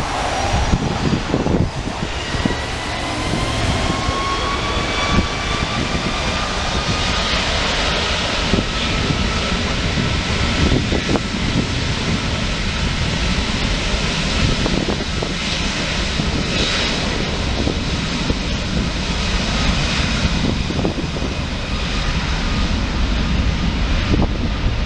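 Wide-body jet airliner passing close by, a steady rumble of its engines with a high turbine whine that rises gently over the first several seconds and then holds level. Wind noise on the microphone runs under it.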